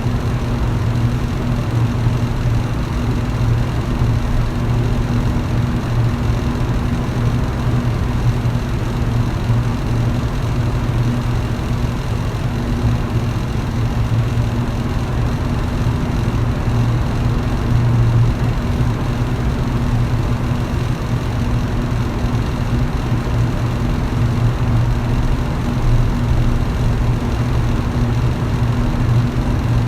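Electric fan running steadily: a constant low hum with a second, higher hum above it, over an even rush of moving air.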